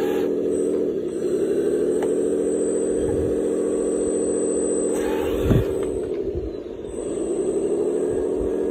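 Motor whine of a radio-controlled construction model, running steadily, dropping in pitch about a second in and again near the end, then climbing back up as it is throttled. A short knock comes about halfway through.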